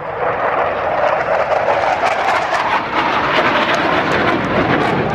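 Jet noise from McDonnell Douglas F/A-18 Hornets in flight: a steady, loud roar.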